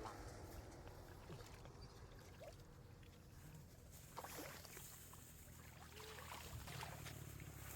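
Faint sloshing and splashing of water, with a few soft knocks.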